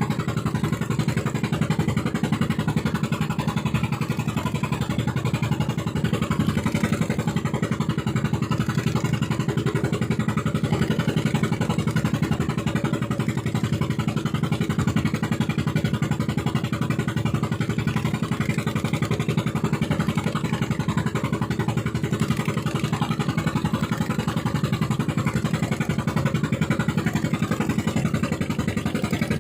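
Fishing boat's engine running steadily at full throttle, a dense, even rapid chugging that holds the same pitch throughout.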